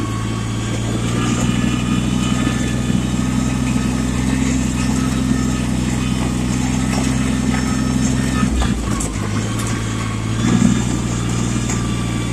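Yanmar tractor's diesel engine running steadily. Its note drops out briefly about eight and a half seconds in, then picks up again.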